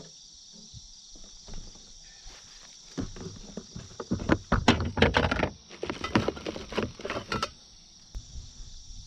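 Irregular knocks, rattles and rustles from about three seconds in until past seven seconds: handling noise as a deeply hooked largemouth bass is worked free of a swallowed hook. A steady high insect chorus runs underneath.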